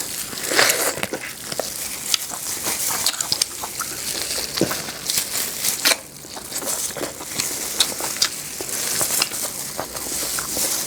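Close-miked chewing and mouth sounds of someone eating: irregular crackly, wet clicks and smacks, with a brief lull about halfway through.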